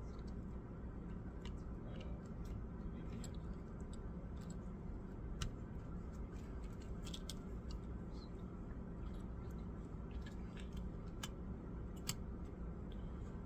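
Light clicks and taps from handling laptop parts, scattered irregularly over a steady low hum, with the sharpest clicks about five seconds in and near the end.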